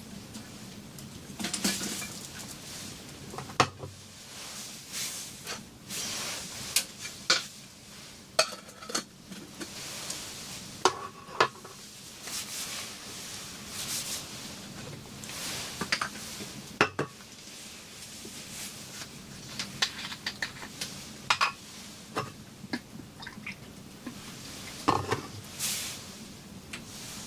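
Cookware and utensils clinking and scraping in irregular, separate knocks, some ringing briefly, over a steady hiss.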